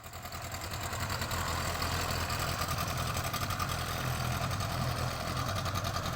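A small engine running steadily, with a low hum and a fast, even beat of firing pulses.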